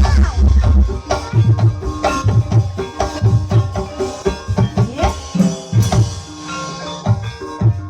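Javanese ebeg (kuda kepang) gamelan music: hand-drum strokes keep a steady driving beat under ringing struck metal notes. Rising swooping notes come in near the start and again about five seconds in.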